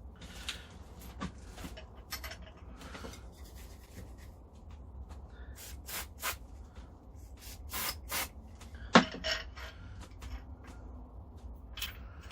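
Metal parts being handled during hand assembly of a belt grinder: rubbing and scraping with scattered clicks, and a sharp knock about nine seconds in.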